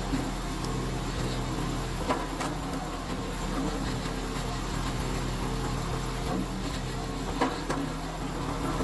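Engine running steadily, with a few sharp knocks or clacks over it, one shortly after the start, two a couple of seconds in, and one near the end.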